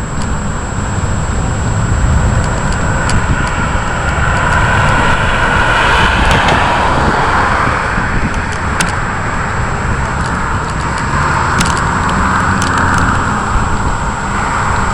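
Thunderstorm noise: a steady, heavy rush with a low rumble underneath, swelling louder about six seconds in and again near the end, with scattered faint ticks.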